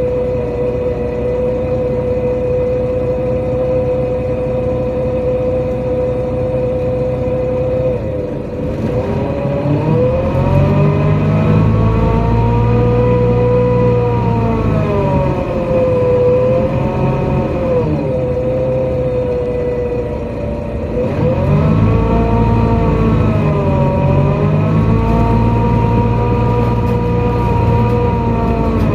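NefAZ-5299 city bus heard from inside: the engine runs steadily at first, then the bus pulls away and accelerates, its engine and drivetrain whine rising, dipping at gear changes and rising again, with a short easing off midway before a second pull.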